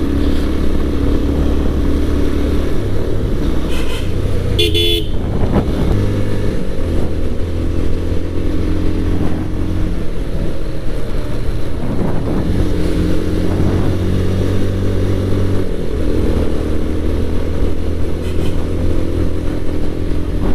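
Motorcycle engine running steadily while riding, its pitch shifting now and then with the throttle. A vehicle horn sounds briefly about five seconds in.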